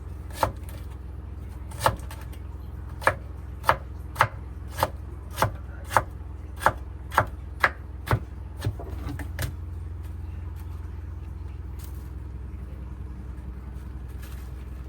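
Knife chopping on a cutting board: about fourteen sharp strokes, roughly two a second, that stop about two-thirds of the way through, over a steady low hum.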